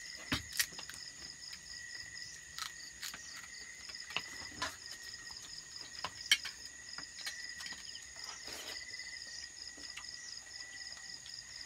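Crickets chirping steadily: a fast pulsing high trill with a steady lower insect tone beneath it. A few short sharp clicks and knocks cut through, the loudest about six seconds in.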